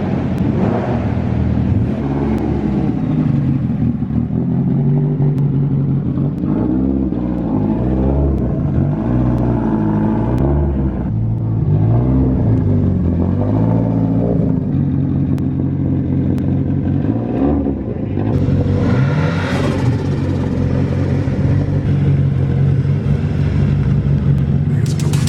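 A rally car's engine running, with its pitch rising and falling in repeated blips between steadier running. A brief hissing rush comes about two-thirds of the way through.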